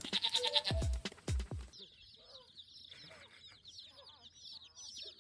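Music with a thumping beat for under two seconds. It cuts off suddenly to chickens: a dense chorus of high chick peeping with occasional lower clucks.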